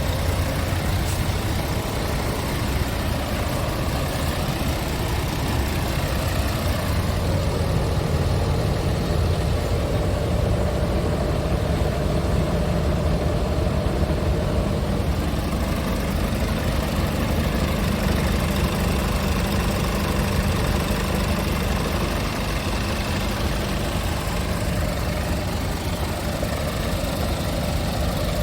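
Scania R490 truck's inline-six diesel engine idling steadily.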